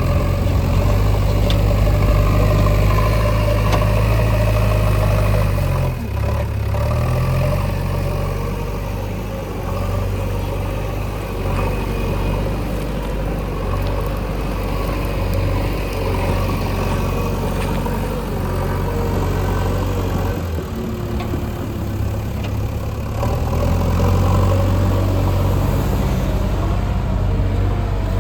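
Diesel engine of heavy road-construction machinery running steadily, with a slight dip about six seconds in and picking up again a few seconds before the end.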